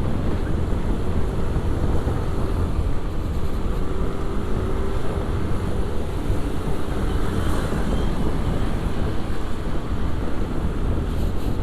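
Steady wind rushing over an action-camera microphone on a moving motorcycle, with the bike's engine and road noise droning underneath.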